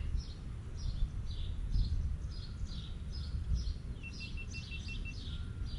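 A songbird chirping a steady series of short, falling high notes, about two to three a second, over a low outdoor background rumble. About four seconds in, a brief run of rapid, evenly spaced high pips joins it.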